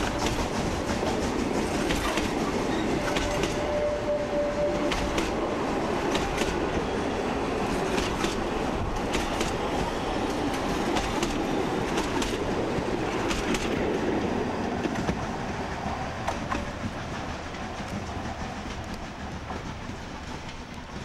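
Narrow-gauge railway coaches rolling past close by, their wheels clicking over rail joints over a steady rumble, with a short squeal from the running gear a few seconds in. The sound fades gradually as the last coach draws away.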